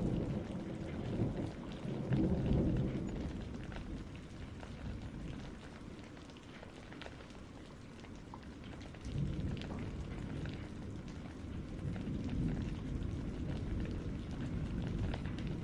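Steady rain with thunder rumbling: a rumble fades away over the first few seconds, and another sets in suddenly about nine seconds in.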